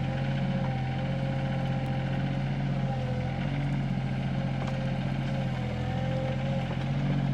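SANY mini excavator's diesel engine running steadily with a thin hydraulic whine rising and falling a little as the bucket lifts a scoop of dirt out of a post hole.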